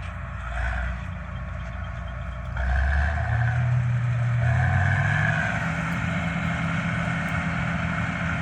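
Combine harvester engine running on a test run, getting louder and rising in speed about two and a half seconds in, then holding steady at the higher speed.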